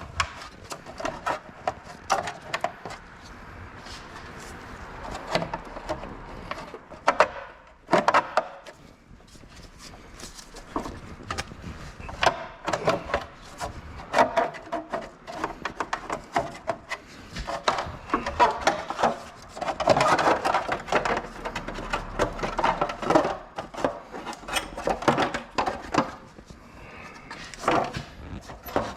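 Hands working on parts and tools: repeated knocks and clicks with stretches of scraping and rubbing, no engine running.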